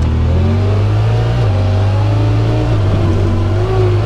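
Side-by-side UTV engine running at low revs, its pitch shifting slightly a few times.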